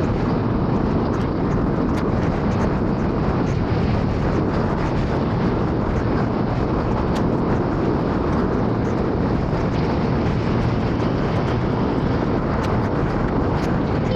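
Steady rush of wind and road noise from a motor scooter riding through city traffic, with the scooter's engine running underneath.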